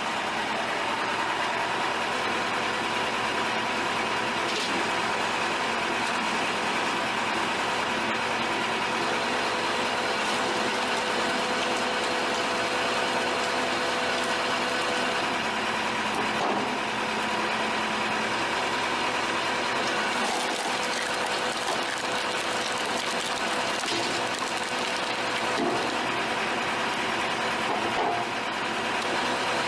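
A machine running steadily: an even mechanical noise with a few constant tones in it.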